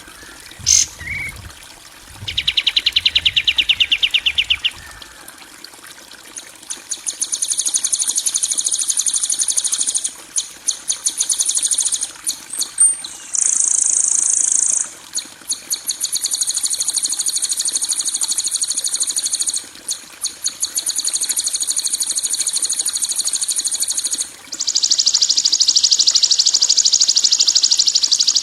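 Recorded harsh bird calls of the kind used to train songbirds: long, very rapid, buzzing trills high in pitch, each lasting several seconds with short breaks, and a lower trill a few seconds in.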